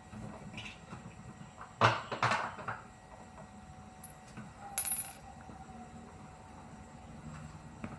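Metal objects clinking and clattering, a quick cluster of knocks about two seconds in, then a single ringing clink near the middle.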